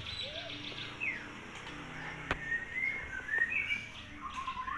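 Small caged birds chirping, a scattered series of short, quick chirps.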